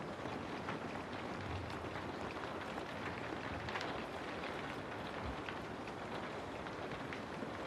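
Steady rain falling, a dense even hiss with many small drop taps picked out within it.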